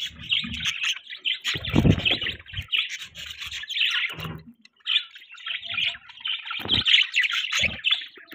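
A group of budgerigars chirping and chattering in a dense, rapid stream of calls, with a brief lull a little past the middle. A few dull thumps sound among the calls, about two seconds in and twice near the end.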